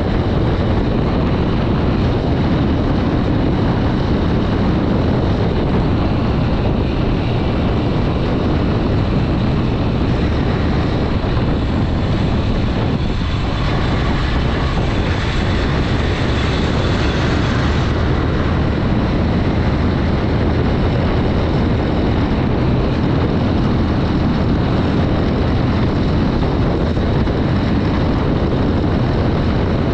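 Steady wind rush on the microphone and road noise from a Honda Dream 110, a 110cc single-cylinder four-stroke commuter motorcycle, cruising with its engine running underneath. A brighter hiss rises for a few seconds about halfway through.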